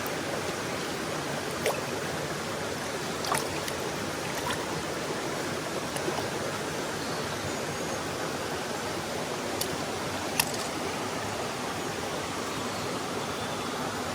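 Mountain stream rushing steadily over rocks, with a few short sharp clicks or knocks on top, the loudest about ten seconds in.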